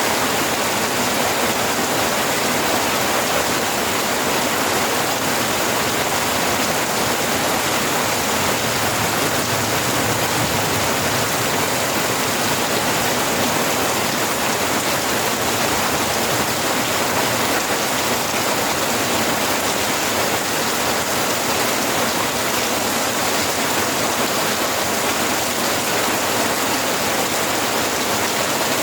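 Steady rain, an even hiss without pauses, swells or single loud drops.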